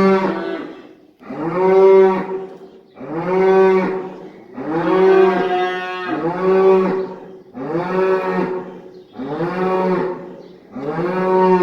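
Cattle in a pen mooing loudly, about eight long calls in a row, one every second and a half or so, with hardly a gap between them.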